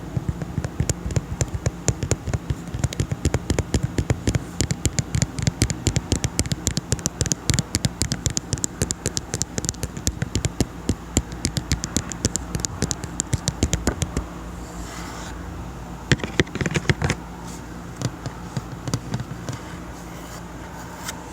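Tapping on a table: a long run of quick, sharp taps, several a second, then a short pause, a brief flurry of taps and a few scattered ones near the end.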